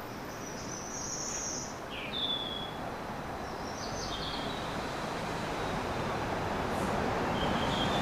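Small birds chirping and trilling in short phrases over a steady outdoor noise that slowly grows louder.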